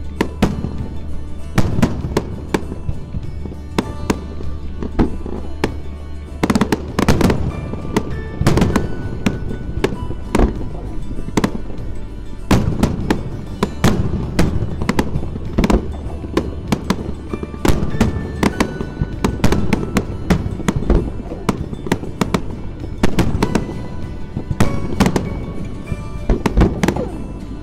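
Aerial fireworks bursting one after another: a dense string of sharp bangs and crackles that comes in thick clusters several times.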